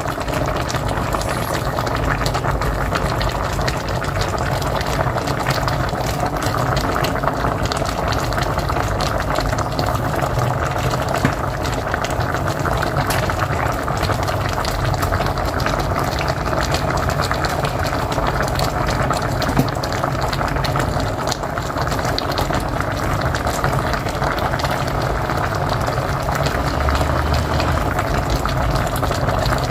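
Pot of mocotó boiling on a wood-fired stove: a steady bubbling thick with small pops.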